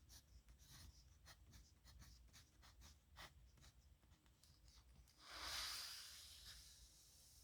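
Nib pen scratching across paper in quick short strokes, then a longer, softer swish a little after five seconds in. The sound is faint.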